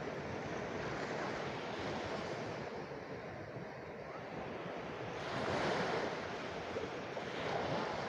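Sea waves washing onto the shore, a steady rushing with two louder swells, the first about five and a half seconds in and the second near the end.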